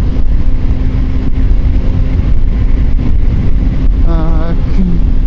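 Motorcycle riding along a road: heavy wind rush on the rider's microphone over a steady engine drone.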